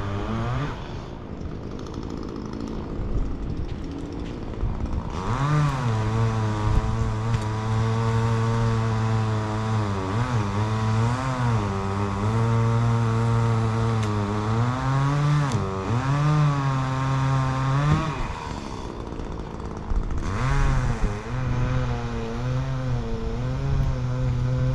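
An engine running at high revs, its pitch dipping and recovering several times as it takes load.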